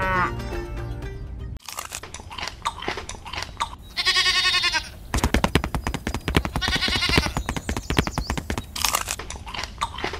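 Two wavering sheep bleats, each under a second long, over a run of crisp crunching clicks like chewing. A cow's moo with music ends about a second and a half in.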